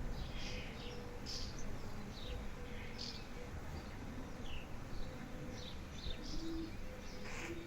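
Small birds chirping in the background: scattered short, high chirps, several a second, over a low steady rumble.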